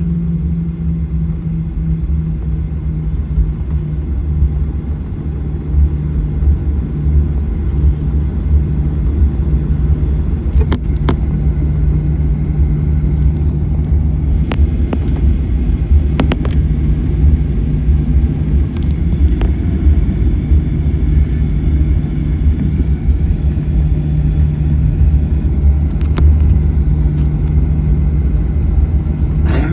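Cabin noise inside a Boeing 737-900ER: a steady low rumble and hum from its CFM56-7B jet engines and the airflow. There are a few light clicks and rattles now and then.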